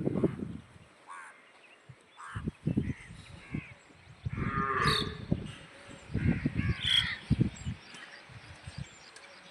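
Cattle mooing, several separate low calls a second or so long, with a few short crow caws in between.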